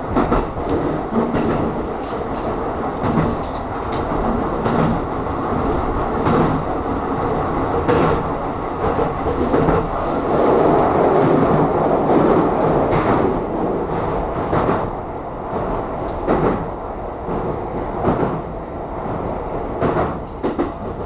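Aonami Line electric train running, with a steady rumble of wheels and motors and sharp clacks over rail joints every one to few seconds. The running noise swells louder about halfway through.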